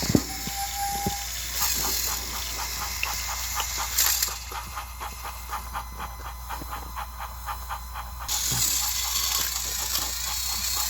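Motorized toy train engines running on plastic track, their gears clicking about four times a second over a steady whir. A louder hiss comes in near the end.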